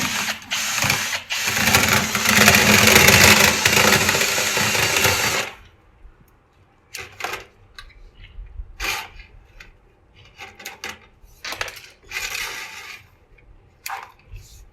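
Motorized dryer vent cleaning equipment running loudly with a steady drone, shutting off abruptly about five and a half seconds in. After that come scattered clanks and knocks from handling the tools and vent parts.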